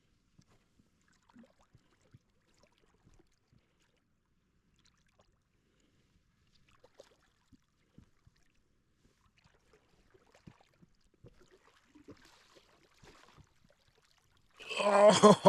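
Mostly very quiet, with faint scattered ticks and a little water trickling while a hooked steelhead is being played. About a second before the end a man lets out a loud, drawn-out exclamation.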